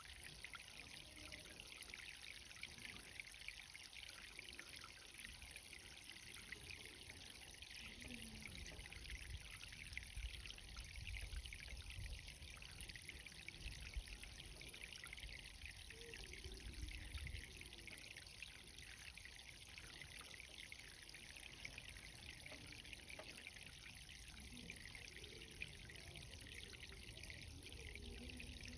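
Irrigation water running steadily while a garden is watered: a soft, even hiss of flowing, spattering water. A few faint low rumbles come in around the middle.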